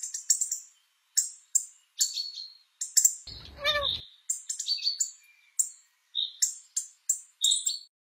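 Small birds chirping: short, high-pitched chirps repeated about every half second, with one brief lower, sweeping call a little after three seconds in.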